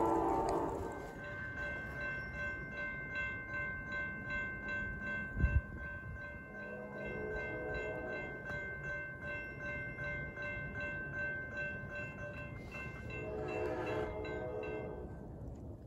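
Railroad grade-crossing bell ringing about three times a second while a train horn sounds: a blast fades out in the first second, and the horn blows again more faintly in the middle and more strongly near the end. A brief low thump comes about five seconds in.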